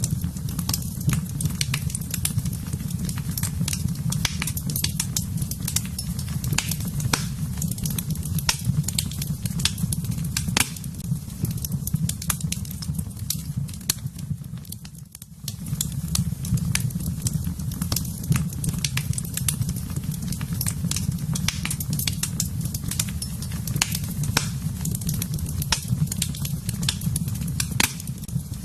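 Fire burning in a fireplace: a steady low rumble of flames with frequent sharp, irregular crackles and pops. The sound dips briefly about halfway through.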